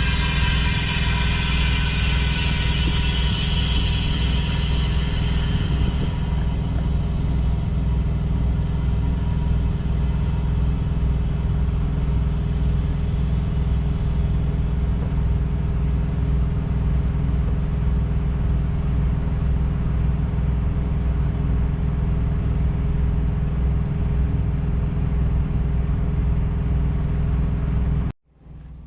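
Kenworth W900 semi truck's diesel engine running at a steady low idle rumble, with a higher whine that slides down and fades away over the first few seconds.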